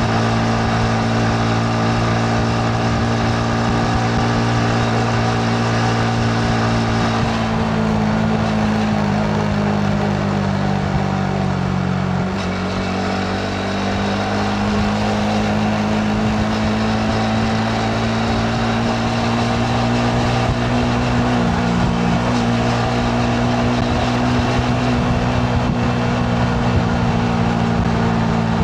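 Yamaha MT-15's single-cylinder engine running while riding. Its pitch falls for several seconds about a quarter of the way in, then climbs back and holds steady.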